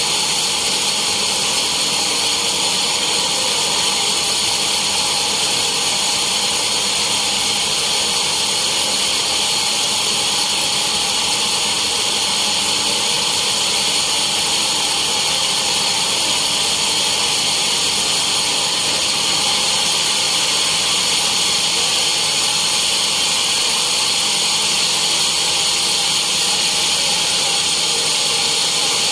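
Sawmill saw running steadily, a loud, even machine noise with a high-pitched hiss and whine that does not change.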